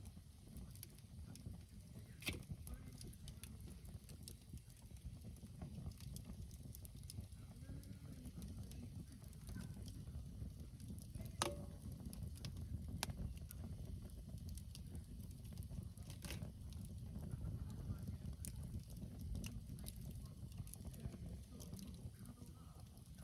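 Wood campfire burning: a few sharp crackles and pops, the loudest about eleven seconds in, over a low steady rumble.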